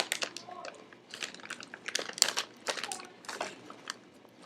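Plastic snack bag crinkling and crackling as it is handled, in irregular sharp crackles.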